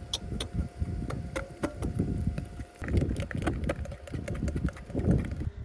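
Gusty wind buffeting the microphone in uneven low rumbles, with a scatter of light clicks and taps through it.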